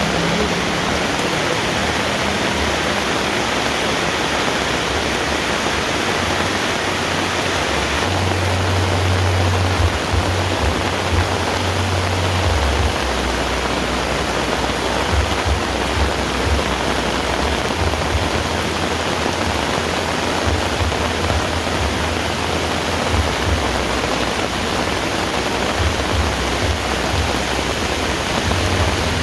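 Heavy rain falling in a steady, dense hiss, with a low rumble that comes and goes from about eight seconds in.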